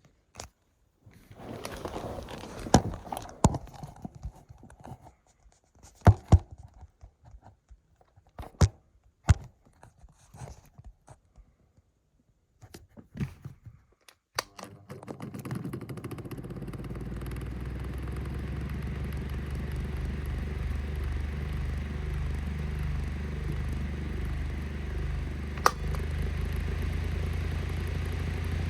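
Knocks, clicks and scraping as a 2016 Fine Elements 9-inch desk fan is handled. About halfway through it is switched on and its motor and blades spin up, building over several seconds to a steady low hum and rush of air. One sharp click comes near the end.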